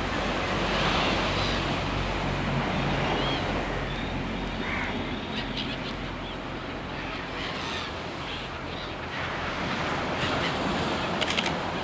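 Surf washing onto a beach as a steady rushing noise, with wind buffeting the microphone.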